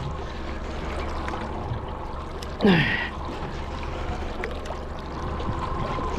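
A person's short exclamation sliding down in pitch, about two and a half seconds in, over a steady low rumble.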